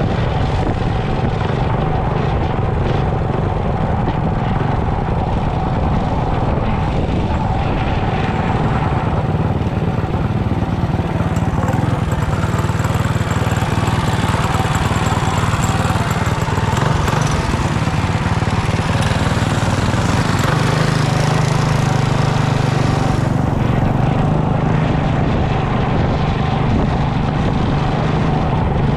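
Mini bike engine running steadily, its pitch stepping up about two-thirds of the way through.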